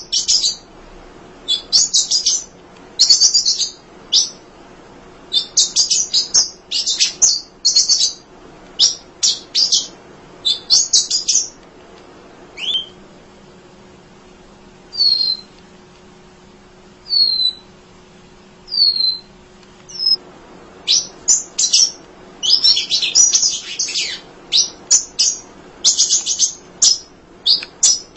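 Emprit (munia, small Lonchura finches) chirping: rapid clusters of high, thin chirps. Around the middle the chirping thins to a few single down-slurred notes, then busy chirping picks up again.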